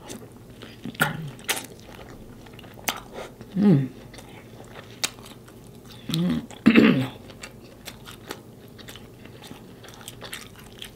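Close-miked chewing and biting of sauce-coated lobster, with wet mouth clicks and smacks throughout. There are a few short hums, once about four seconds in and twice more around seven seconds.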